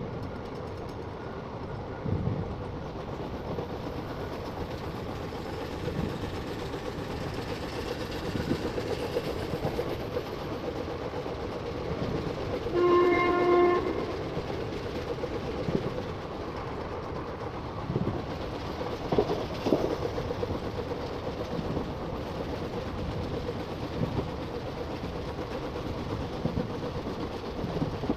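Passenger train running along the track, its wheels knocking over rail joints at uneven intervals. About halfway through, a train horn sounds once for about a second.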